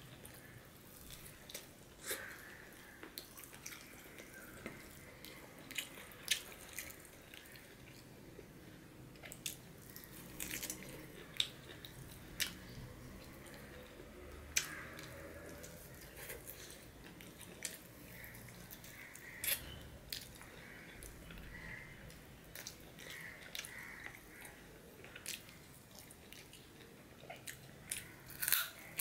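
Close-miked chewing of rice and chicken curry, with wet lip smacks and mouth clicks coming at irregular moments.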